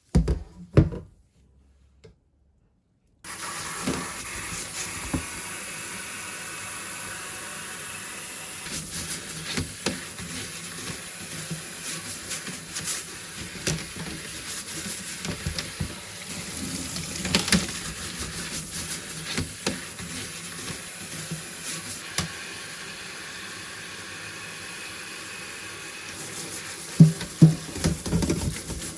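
Two sharp knocks, then about three seconds in a tap starts running steadily into a sink, with scattered knocks and clatter from handling items, the loudest near the end.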